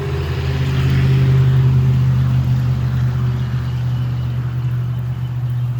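A low, steady engine hum that swells over the first second or so and then eases off slowly.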